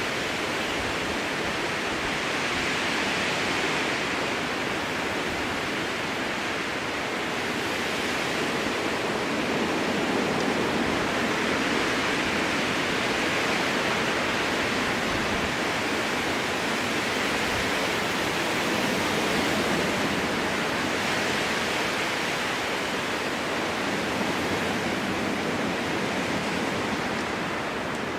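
Strong wind blowing through a spruce forest: a steady rushing that slowly swells and eases every several seconds.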